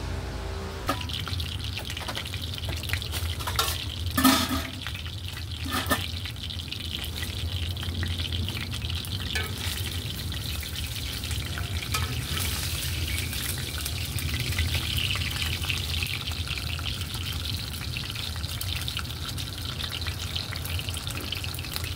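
Food frying in oil in a cast iron skillet: a steady crackling sizzle that starts about a second in, with a couple of sharper knocks about four and six seconds in.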